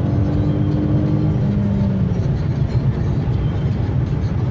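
Infiniti Q70 driving, heard from inside the cabin: a steady low rumble of engine and road noise, with a steady droning tone that fades out about two seconds in.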